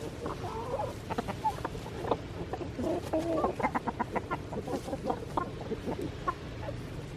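Backyard chickens clucking, several short calls overlapping, with a quick run of rapid clucks near the middle.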